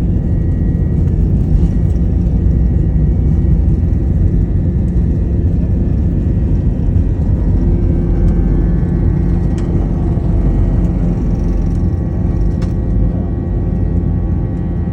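Airliner cabin during takeoff: a loud, steady low rumble of the jet engines and airframe with a faint whine above it. Two brief clicks come in the second half.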